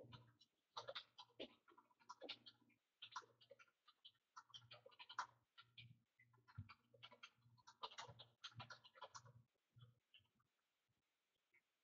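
Faint, irregular clicking of a computer keyboard and mouse, quick runs of keystrokes that stop about ten seconds in.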